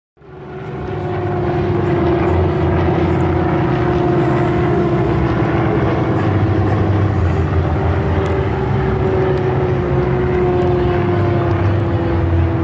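Propeller aircraft engine running steadily, fading in at the start and holding one strong, even tone that drifts slightly lower.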